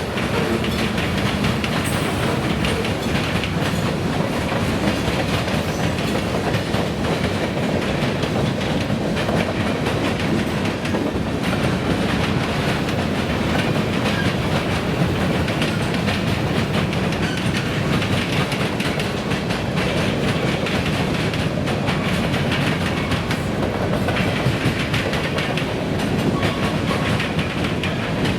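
Freight train cars rolling past, with a steady clatter of steel wheels over the rails throughout.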